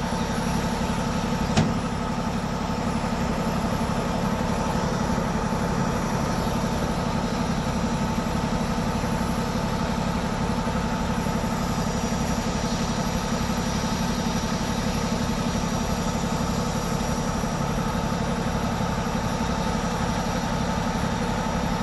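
A vehicle engine idling steadily, with a fine even pulse and a constant hum, and a single sharp click about a second and a half in.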